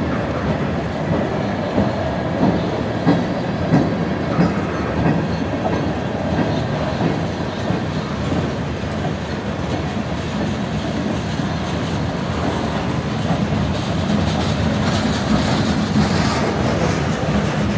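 A freight train's cars rolling past at speed, the wheels clicking rhythmically over rail joints, with a few sharper clacks in the first few seconds.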